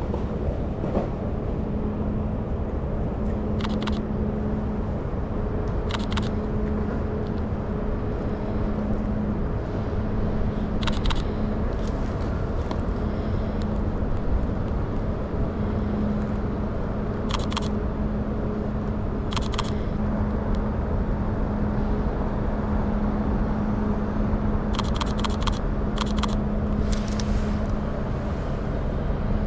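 City street ambience: steady traffic noise under a constant low hum, with a handful of sharp camera-shutter clicks, scattered singly and then several in quick succession near the end.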